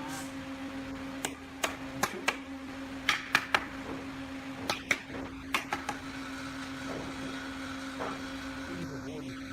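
A series of sharp knocks and clicks, about a dozen, between about one and six seconds in, over a steady mid-pitched hum.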